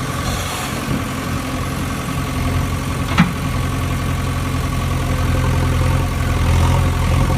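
Engine idling steadily, with one sharp click about three seconds in.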